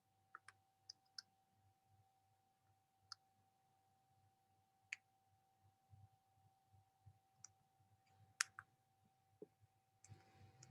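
Near silence with a faint steady hum and a handful of faint, scattered clicks, the strongest about eight seconds in.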